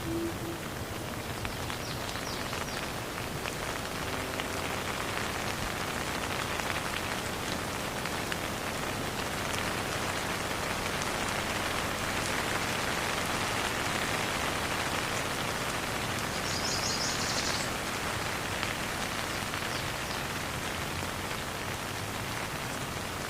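Steady rain falling, an even hiss of many drops on surfaces, with no thunder.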